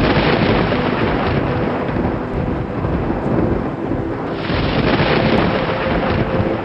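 Thunder rumbling continuously with rain, swelling again about four seconds in.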